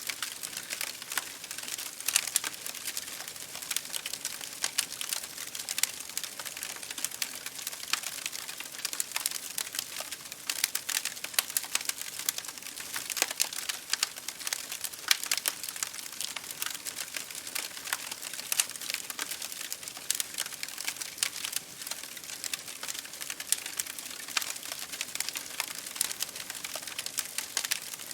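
Wood fire crackling in a fireplace, dense irregular snaps and pops over a steady hiss, mixed with rain pattering on window glass.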